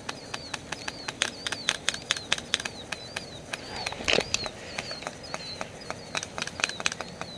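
Airsoft guns firing in sharp clicking shots, scattered and in quick strings, with a louder cluster about four seconds in. A high chirp, like a bird call, repeats about three times a second behind them.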